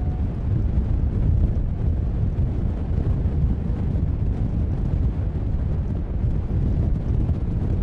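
Storm wind buffeting the microphone: a loud, steady low rumble.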